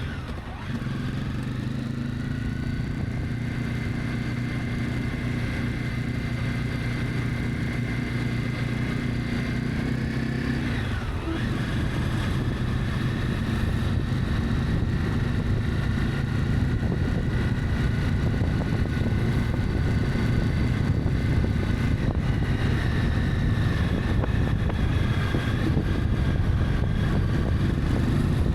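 Honda CB300F single-cylinder engine running steadily under way, with wind and road noise. About eleven seconds in, the engine note dips and recovers, as at a gear change.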